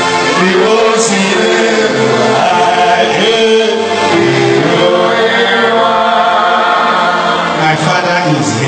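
Gospel music with a group of voices singing together, continuous throughout.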